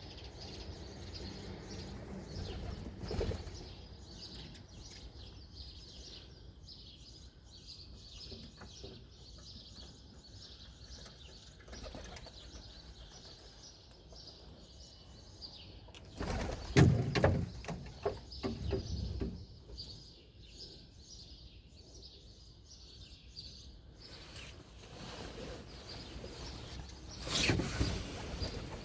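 Birds chirping over a low, steady background hum, with two louder bursts of noise, one about two-thirds of the way through and one near the end.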